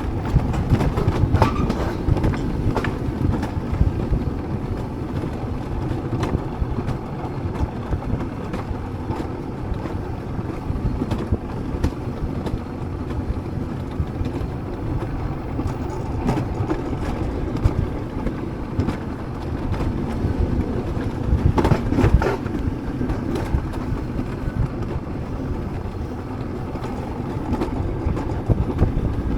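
Alpine coaster sled running down its metal rails: a steady rumble of the wheels, with clicks and knocks from the track and louder rattling about a second and a half in and again around twenty-two seconds in.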